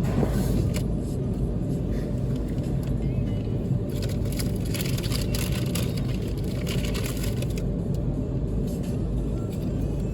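Car engine idling, heard from inside the cabin as a steady low rumble, with stretches of hiss in the middle.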